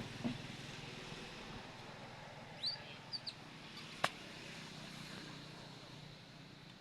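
A few short, high-pitched squeaks or chirps from an animal, each rising quickly in pitch, over a steady low background hum, with a single sharp click about four seconds in.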